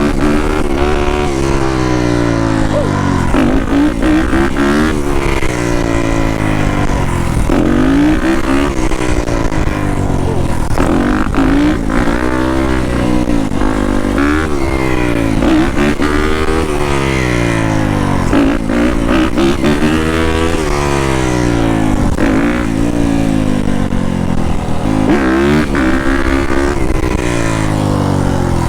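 Yamaha YZ250F dirt bike's single-cylinder four-stroke engine being ridden hard, its pitch climbing and falling again and again, about every couple of seconds, as the throttle is worked and it runs up through the revs.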